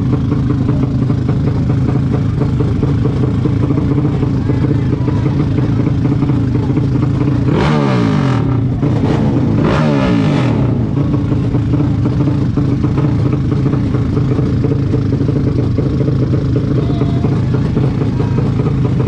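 Vehicle engine running steadily under load, revved up twice in quick succession about eight and ten seconds in, each time rising in pitch.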